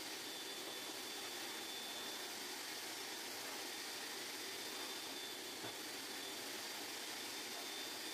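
Steady hiss with a thin, high, steady whine in it and a faint click about five and a half seconds in.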